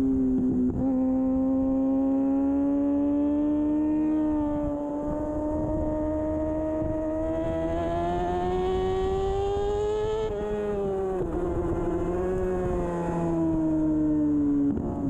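2013 Kawasaki Ninja ZX-6R 636's inline-four engine running at high revs under racing load. Its note climbs slowly for about ten seconds, drops sharply, then sinks further near the end.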